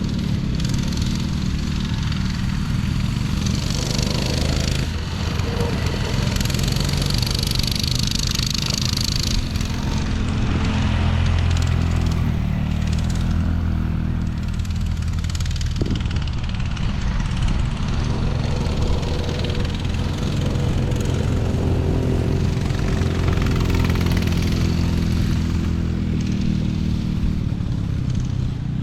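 Small off-road vehicle engine running steadily while riding, its pitch shifting a little with the throttle, with rushing noise over the top.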